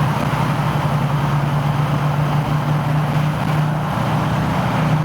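Car engine running steadily, a constant low drone with road or wind noise above it.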